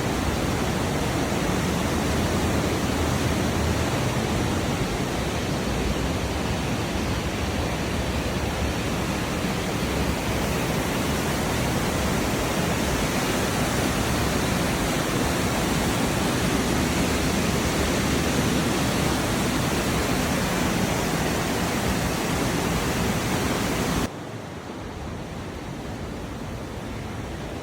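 Rushing canyon stream water, a steady loud roar of whitewater that drops suddenly to a quieter level about 24 seconds in.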